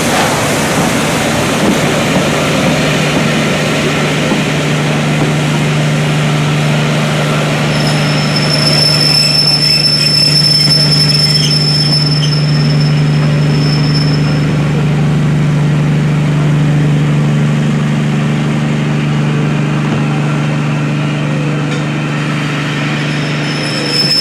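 Train at a station platform: a steady low drone throughout, with a thin high-pitched wheel squeal coming in about a third of the way in and lasting several seconds.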